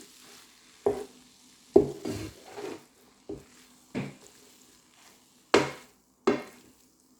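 A spatula stirring vegetables and cauliflower rice in a frying pan, with irregular knocks and scrapes against the pan, the loudest two near the end, over a faint sizzle.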